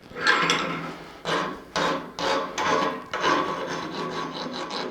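Hand-tool scraping strokes on the freshly forged steel skull, likely cleaning it up after it was cut from the bar: a few separate strokes, then quicker, even ones at about three a second in the second half.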